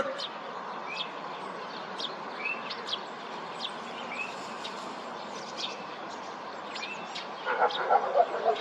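Small birds chirping, with scattered short high chirps over a steady background hiss. Near the end comes a brief run of louder, choppy sounds.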